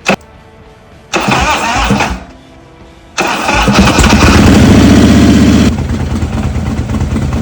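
Freshly rebuilt Harley-Davidson Twin Cam B V-twin making its first start: a click, a short burst of starter cranking, then about three seconds in it catches and runs high and loud. After a couple of seconds it settles to a steadier, lower idle.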